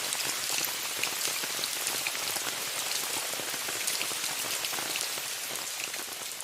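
Steady rain falling on a tent, a dense hiss dotted with many small drop ticks, beginning to fade out near the end.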